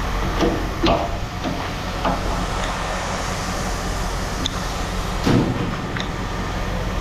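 Pieces of scrap metal clanking as they are handled and dropped. The loudest knocks come about a second in and about five seconds in, with a steady machine hum running underneath.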